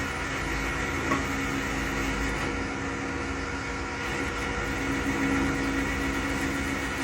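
A machine or power tool running steadily, with a constant hum of several held tones over a noisy bed.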